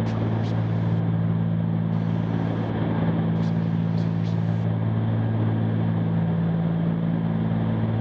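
Steady drone of the Cessna 310Q's twin piston engines and propellers heard in the cabin, even in pitch and level, with a few faint ticks.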